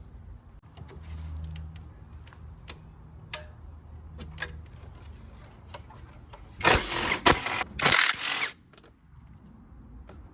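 Cordless power tool run in two short bursts of about a second each, backing out small bolts, after a few light clicks and taps of tools on parts.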